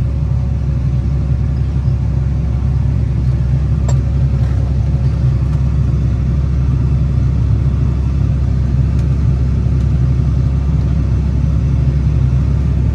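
Tractor engine running steadily with a low, even rumble as the tractor pulls ahead towing folding harrows.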